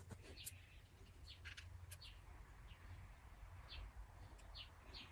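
Near silence with a low hum, and faint, scattered bird chirps several times.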